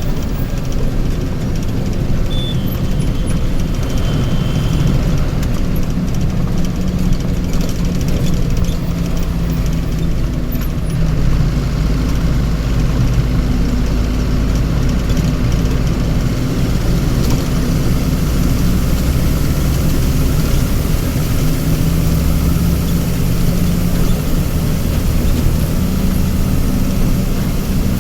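Heavy vehicle engine running steadily with a low rumble whose pitch drifts slowly up and down, as when idling and creeping forward.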